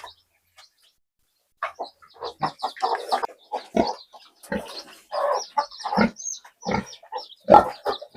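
Pigs grunting and squealing, mixed with chickens clucking, in a dense run of short calls that starts after about a second and a half of near silence.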